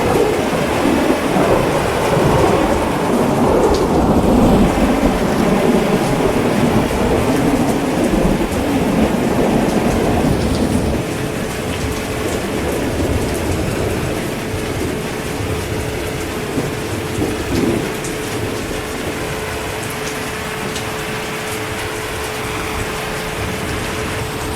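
Heavy rain falling steadily, with a rolling rumble of thunder through the first half that fades after about ten seconds, leaving steady rain. A faint steady hum sits under the rain in the second half.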